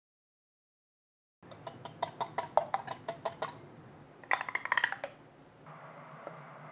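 After about a second and a half of silence, a kitchen utensil clinks repeatedly against a mixing bowl, several quick knocks a second, then a denser flurry of clinks near the middle, as dough is being mixed.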